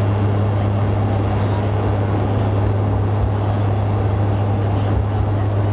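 Twin turboprop engines and six-bladed propellers of a Bombardier Dash 8 Q400 running, heard inside the passenger cabin as a loud, steady low drone over a broad rushing noise.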